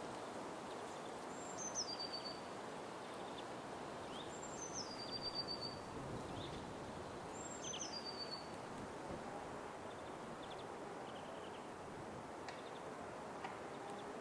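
Forest ambience: a steady, even background rush, over which a bird calls three times, a few seconds apart. Each call is a high note that drops in steps to a lower, held whistle. Faint chirps come in between.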